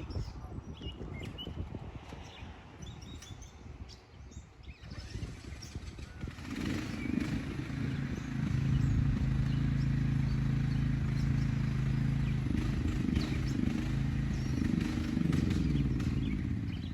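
Small gasoline engine, typical of a chainsaw at tree felling, comes in about six seconds in and runs at steady high revs, its pitch wavering a little near the end. Before it there is a low rumble with birds chirping.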